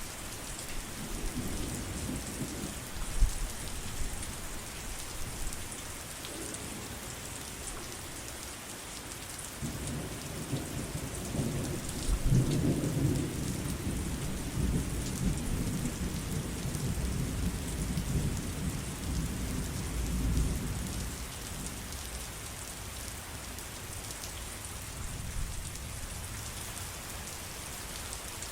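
Steady rain falling, with thunder rumbling twice: a shorter rumble in the first few seconds and a longer, louder one from about ten seconds in that fades out near the twenty-second mark.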